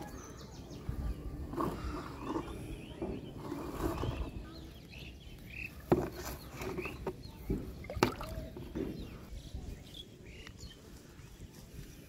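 Outdoor ambience with scattered short bird chirps and low rustling, broken by two sharp knocks about six and eight seconds in, typical of things being set down and handled on the ground.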